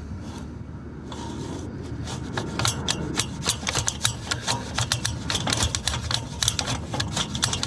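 Sewer inspection camera and its push cable being fed through a drain pipe: rapid, irregular clicking and scraping that starts about two seconds in and grows busier, over a low rumble.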